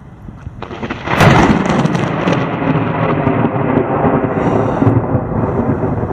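Thunder: a sudden sharp crack about a second in, then a long rumble that carries on.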